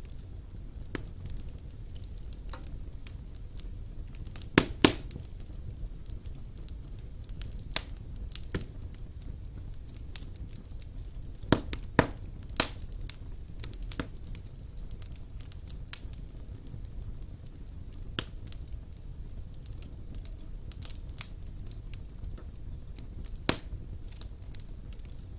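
Wood fire burning in a fireplace: a steady low rumble of flames with irregular sharp crackles and pops of the burning logs, a few louder snaps about five seconds in and again around twelve seconds.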